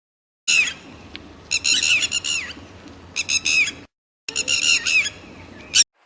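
Red-wattled lapwing calling: several bursts of sharp, rapidly repeated notes, with abrupt dead gaps between the bursts and one short, sharp note near the end.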